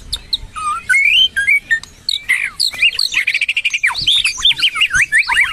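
White-rumped shama and oriental magpie-robin singing loud, varied whistled phrases, with a fast run of evenly repeated notes about halfway through.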